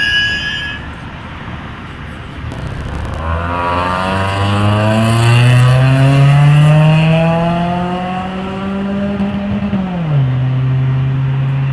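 An engine accelerating with a smoothly rising pitch for several seconds, then dropping sharply about ten seconds in, like a gear change, and holding steady at the lower pitch.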